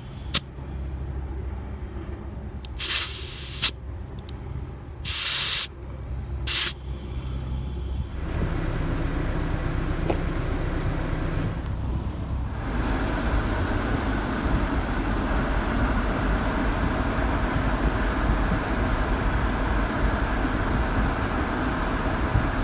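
Compressed air hissing in four short bursts as a low trailer tire is topped up, one brief and three longer, over the first seven seconds. From about eight seconds in, a car runs with a steady low rumble that grows fuller and broader a few seconds later.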